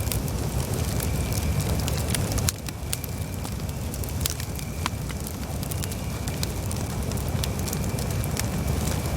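Campfire burning, with scattered sharp crackles and pops over a steady low rumble. A faint thin whistle-like tone runs underneath, and the rumble drops suddenly about two and a half seconds in.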